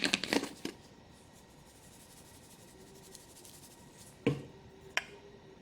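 Seasoning shaken briefly from a shaker onto steak, a quick rattle in the first half-second. After a quiet stretch come two sharp clicks about a second apart near the end.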